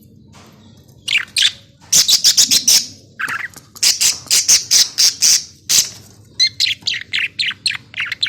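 Budgerigars calling: quiet for about a second, then runs of loud, short, harsh chirps and squawks, several a second, with brief pauses between the runs.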